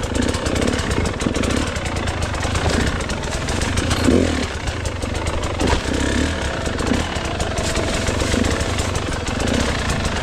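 Gas Gas enduro dirt bike engine running at low revs, with uneven throttle blips and a louder surge about four seconds in.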